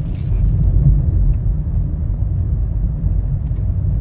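Steady low rumble of a car driving along a plowed, snowy road, with engine and tyre noise heard from inside the cabin.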